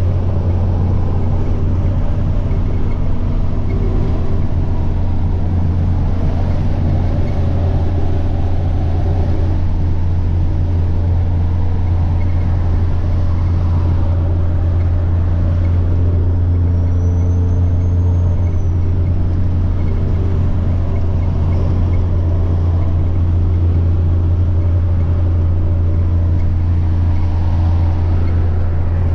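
Semi-truck diesel engine running at a steady cruise, a loud low drone with no let-up. A faint high turbo whine rises and falls once, a little past halfway.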